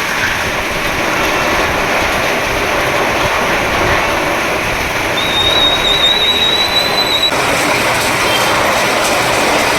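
Heavy rain falling steadily, a loud even hiss. A thin, high, whistle-like tone sounds over it for about two seconds midway.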